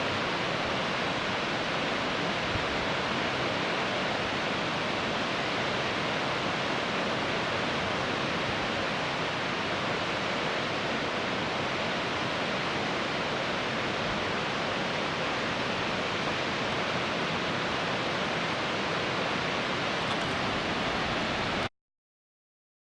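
Nardis waterfall's water falling and rushing in a steady, even noise, the falls running low after a long drought. It cuts off abruptly near the end.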